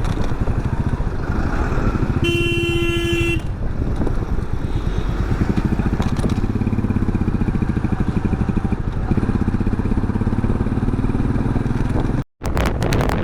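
Motorcycle engine running under way at highway speed, its pitch shifting as the throttle changes. About two seconds in, a vehicle horn sounds once for about a second.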